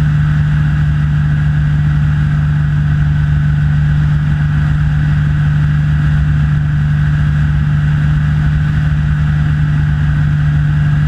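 Rans S6 light aircraft's engine and propeller running steadily in flight: an even, unbroken low drone.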